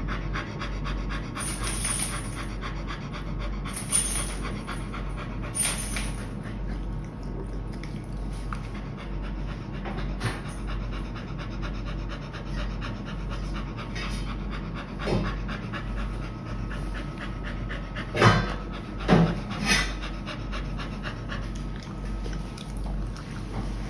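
Pet dog panting quickly and steadily, with several short sharp clicks or knocks, the loudest a pair about 18 and 19 seconds in.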